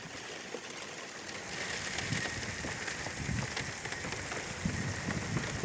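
Rain hitting a car's windshield, heard from inside the car: a steady hiss of drops that grows heavier about a second and a half in, with scattered soft knocks of larger drops.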